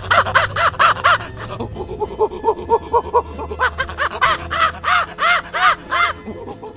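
Chimpanzee calling in quick series of short, arched hoots, about five a second, in two bouts; the second bout, about three and a half seconds in, is louder and higher. Background music plays underneath.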